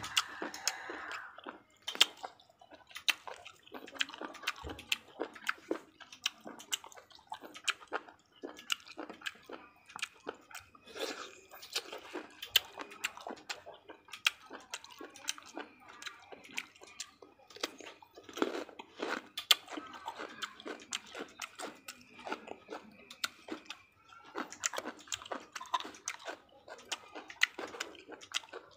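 A person chewing and crunching raw cucumber and vegetables, with many irregular wet crunches and mouth clicks.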